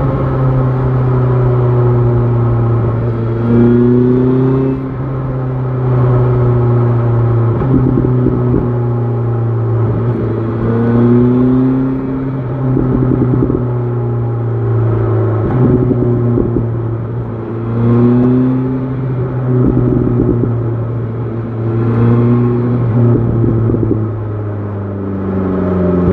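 BMW S1000 XR motorcycle engine running under way, a steady note that rises briefly in pitch several times as the throttle is opened.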